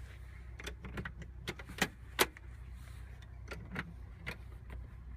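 Several light, sharp clicks and knocks at irregular intervals over a low steady hum.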